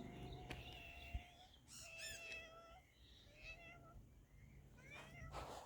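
Domestic cat meowing faintly, a few drawn-out calls, with short rising bird chirps near the end.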